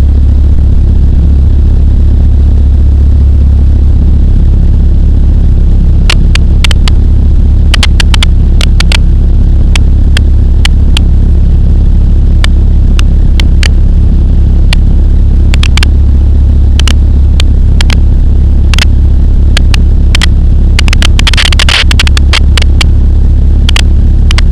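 Pulsar XP microlight aircraft's engine and propeller droning steadily in flight, a loud, even low hum. Scattered sharp crackles come in from about six seconds in.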